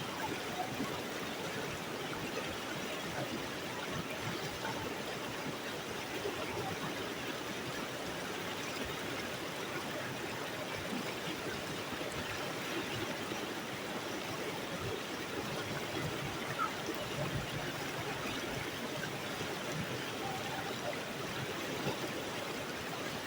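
Steady rush of water flowing in a rocky mountain stream.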